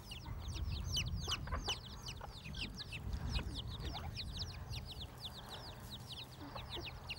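A brood of young chicks peeping continuously: many short, high peeps that slide downward, several a second, overlapping, over a low rumble.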